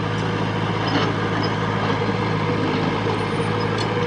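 Heavy diesel engine of a dump truck or small bulldozer running steadily at an even, constant pitch.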